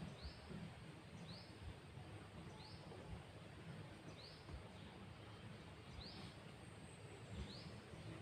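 A bird calling faintly: one short, high, upward-flicking chirp repeated at an even pace, about every second and a half, over low background noise.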